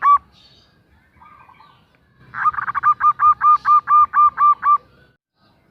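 Female zebra dove (perkutut) calling to a male. A string of about a dozen short, evenly spaced notes comes at roughly five a second, just after a similar string ends as the sound begins.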